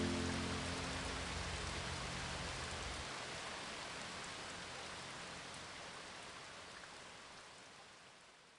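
Steady hiss of rain, slowly fading out. The last low notes of the background music die away in the first three seconds.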